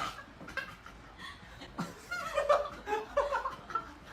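A person laughing and snickering in several short bursts.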